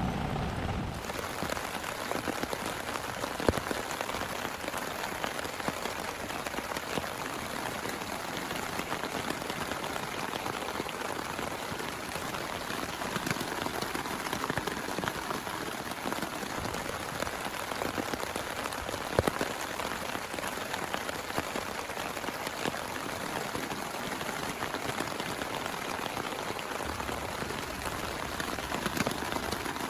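Steady rain falling, an even hiss of drops with a few louder single drop hits, the sharpest about 3.5 seconds in and again just past the middle.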